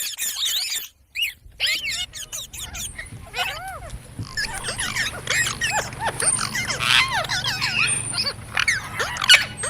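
Parrots chirping and squawking in quick, overlapping calls that glide up and down in pitch, with a brief break about a second in.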